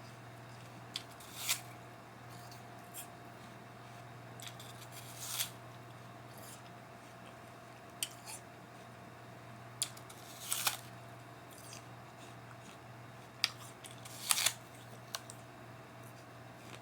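Apple being chewed: short crisp crunches and clicks, irregularly spaced every second or so.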